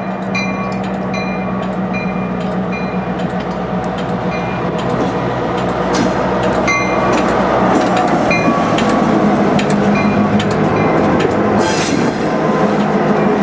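A slow-moving diesel-hauled freight train, its engine running with a steady low drone and growing louder. The wheels click over rail joints about twice a second, each click carrying a short metallic ring or squeal.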